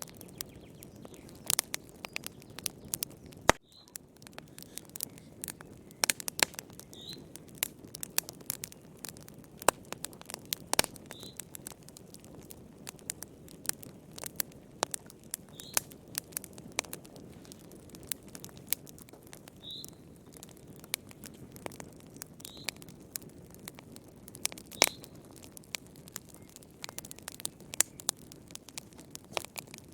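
Wood fire crackling: irregular sharp pops and snaps, several a second, over a steady low rumble of burning. Brief faint high chirps come every few seconds.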